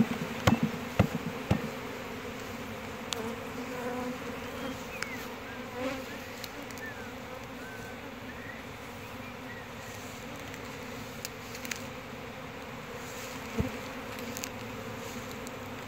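Honeybees buzzing in numbers around an opened hive, a steady hum. A few sharp clicks sound in the first second and a half, and one more near the end.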